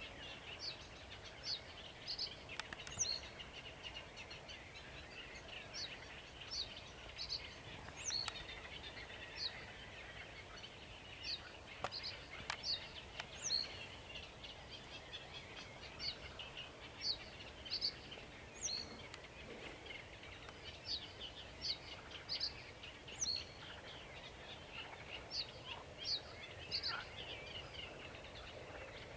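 Sedge warbler and another bird singing at once: a continuous fast, scratchy chatter with short high notes in twos and threes repeating every second or two.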